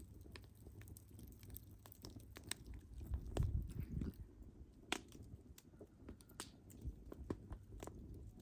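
Wood fire crackling, with irregular sharp pops and snaps of burning logs over a low rumble of flame that swells louder about three to four seconds in.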